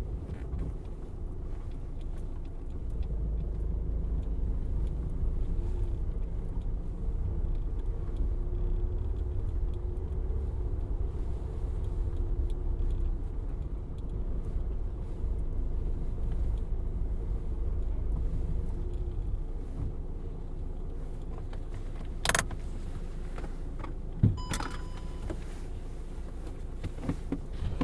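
Diesel car heard from inside the cabin, running with a low, steady rumble and a faint tone that wanders in pitch. Near the end come a sharp click, a second click and a few short high tones.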